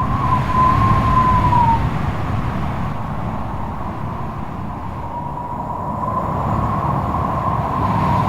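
Strong wind blowing hard, a steady low roar with a high whistling howl over it that wavers in pitch, fades out about two seconds in and comes back after about five seconds.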